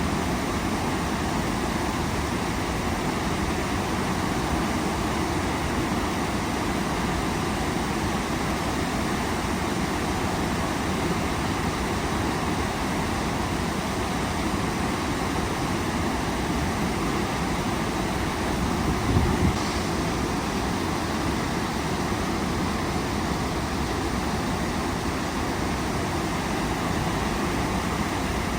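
Waterfall rushing in a steady, even roar of falling water. About two-thirds of the way through there is a brief low bump.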